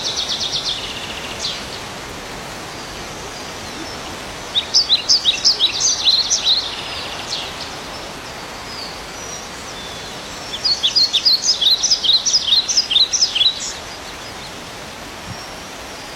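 A bird singing two bursts of quick, repeated high chirps, about five seconds apart, the second a little longer, over a steady outdoor hiss.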